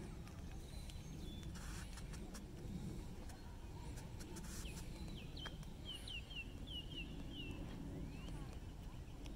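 A songbird sings one quick run of about eight short, falling notes about halfway through, over a steady low rumble.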